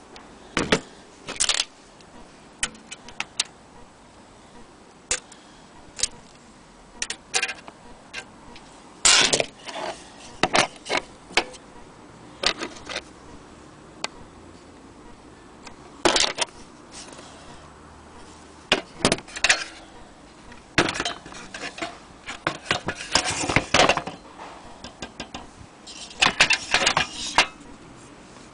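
Old metal lantern being handled: irregular clicks, knocks and short metallic rattles from its loose parts, coming in clusters with pauses between.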